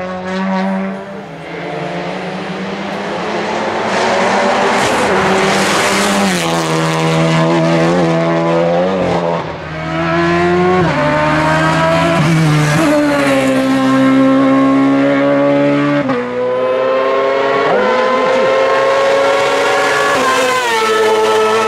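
Hillclimb race car engine under hard throttle, its revs climbing and dropping sharply again and again through a series of gear changes.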